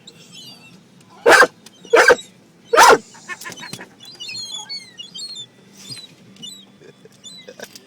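A dog barking three times, about half a second to a second apart, followed by small birds chirping in quick, high notes.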